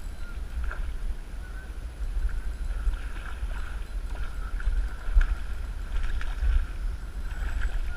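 Wind buffeting the microphone in a low, gusting rumble, with a faint steady whine and a few light clicks over it.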